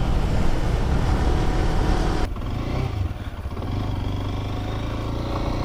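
Small Lifan motorcycle engine running under way, with wind rush on the helmet microphone. About two seconds in the sound changes abruptly to a steadier, slightly quieter engine note, as the ride switches from the KP Mini 150 to the X-pect 200 enduro.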